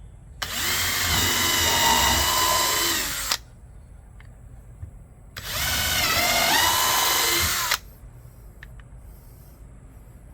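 Power drill running in two bursts of about three and two and a half seconds, drilling holes in wood. Its whine dips in pitch early in the second burst.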